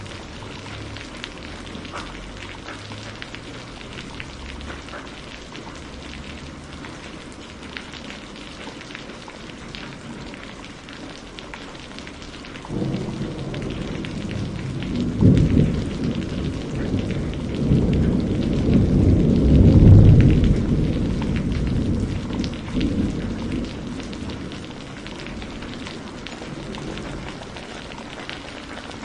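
Steady rain falling, with scattered drops tapping. About halfway through, a roll of thunder rumbles in, swells to its loudest a few seconds later and fades away.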